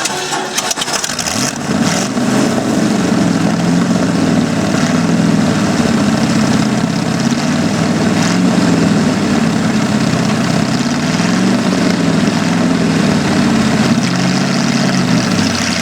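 Chevy 350 V8 engine running just after a cold start on starting fluid, with the saw clutch disengaged. It speeds up under a little throttle about a second and a half in, then runs on with its speed wavering slightly.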